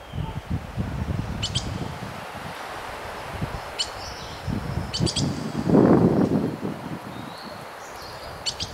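Small birds giving short, sharp chirps, a few times in quick pairs, over rustling pine branches and low wind noise. A louder rush of wind or rustling comes about six seconds in.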